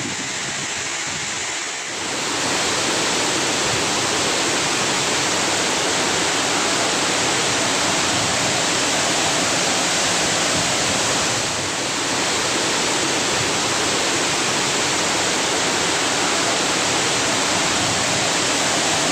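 Mae Aep waterfall: a steady rush of falling water. It grows a little louder about two seconds in and dips briefly near twelve seconds.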